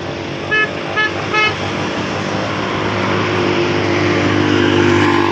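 Heavy truck engine running steadily, with three short horn toots in quick succession about a second in. The engine grows gradually louder toward the end.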